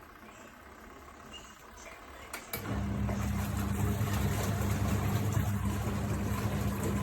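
Mini twin-tub washing machine's motor starting after a couple of clicks about two and a half seconds in, then running with a steady low hum.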